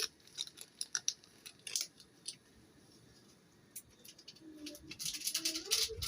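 Light clicks and crinkles of a seasoning sachet being handled and shaken out over noodles, quiet for a moment in the middle. A denser rustle comes near the end.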